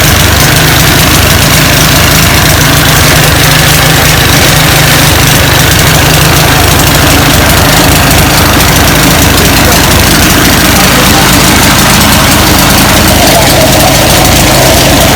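Chaff cutter for chopping grass as fodder, running with a loud, steady mechanical drone.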